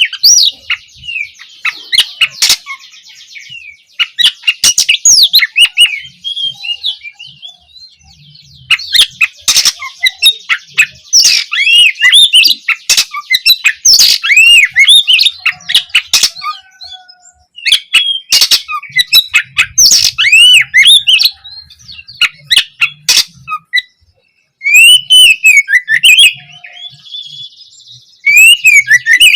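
Oriental magpie-robin (kacer) singing loudly in bursts of rapid, varied whistled phrases with sharp clicking notes, with a short buzzy rattle just after the start and again near the end.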